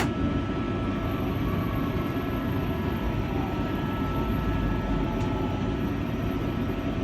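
Tram's steady low rumble and hum as it pulls into its stop, with a faint steady whine above it.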